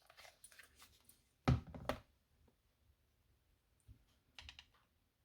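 Light clicks and rustles of paper pieces being handled and pressed together on a craft table, with one louder knock about one and a half seconds in and a few faint ticks near the end.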